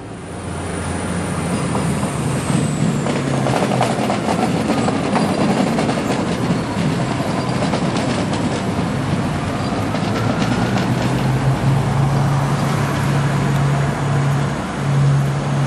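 Newag Impuls electric multiple unit rolling slowly past on a curve, wheels clattering over the rails with a faint whine that rises near the middle. About eleven seconds in a steady low hum comes in under the rolling.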